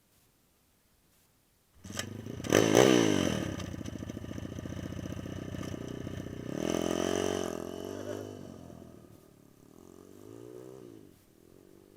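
Pit bike engine starting about two seconds in and revving sharply at once, then running steadily. The revs rise and fall twice more before the engine note dies down near the end.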